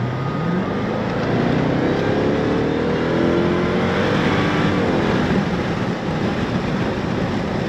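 A V8 muscle car's engine pulling hard under full throttle, its pitch climbing as it accelerates.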